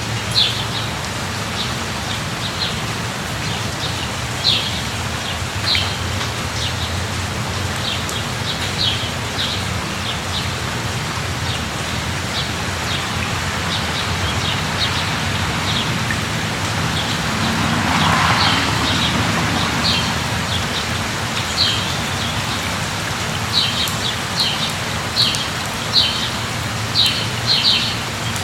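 Steady light rain falling, with a bird chirping over it in short repeated calls that come thicker near the end. About eighteen seconds in there is a brief swell of noise.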